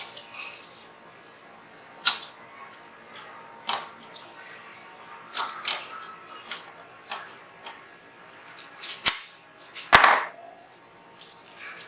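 Sharp metallic clicks and knocks of Zigana 36 9mm pistol parts being handled and fitted together during reassembly, about a dozen scattered taps, with the loudest, ringing knock about ten seconds in.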